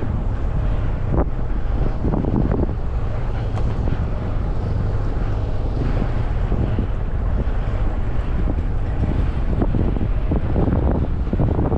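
Wind buffeting a GoPro's microphone on a moving road bike: a steady low rumble, with scattered short knocks through it.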